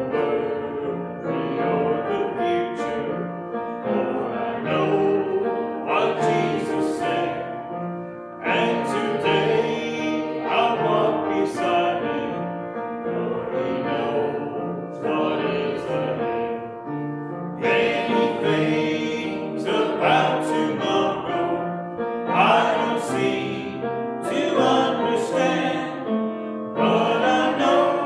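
A congregation singing a hymn together with piano accompaniment, in phrases with short breaks between the lines.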